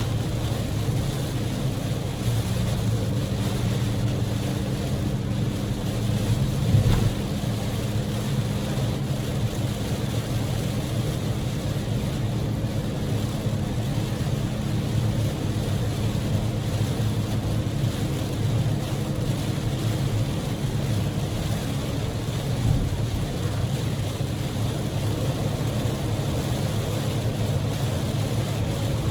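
Inside the cabin of a Daihatsu Move L150S with its EF-VE three-cylinder engine, driving at speed in heavy rain: a steady hiss of rain and wet tyres over the low drone of the engine. Two brief thumps, the louder about seven seconds in.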